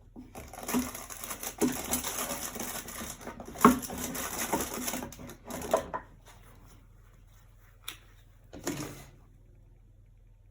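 Scratchy scraping and rustling of acrylic painting tools and materials, dense for about six seconds with irregular clicks and knocks, then a single click and a short scrape near the end.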